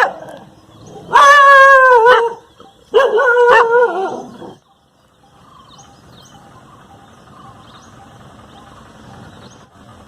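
A dog giving two long, drawn-out barks, about a second and three seconds in; each falls in pitch at its end, and the second breaks into shorter barks.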